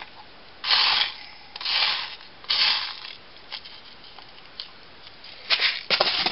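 Chipboard pieces and a small metal eyelet being handled by hand: three scraping rubs about a second apart, then a few light clicks and a quick run of taps near the end.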